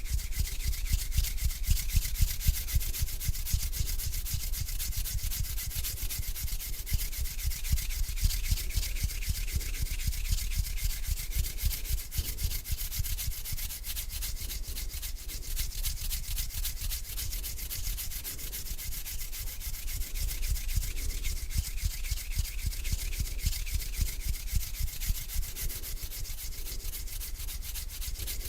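Close-miked hands rubbing together slowly, a continuous dry, crackly friction sound with gentle slow swells.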